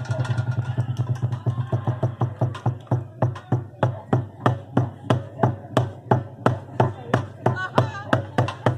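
Street percussion on instruments made from recycled materials: a steady beat of sharp strikes, about three a second, over a steady low hum.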